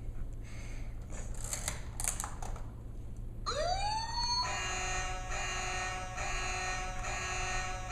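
Electronic siren sound effect from the 2000 Hess toy fire truck's small speaker: a rising wail starts about three and a half seconds in, then turns into a steady pulsing tone. Before it come a few clicks from the toy being handled.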